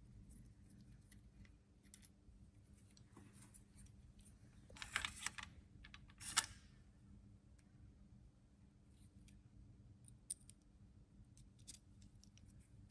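Faint small clicks of hand tools on metal, with two brief scraping sounds about five and six and a half seconds in, over a steady low hum.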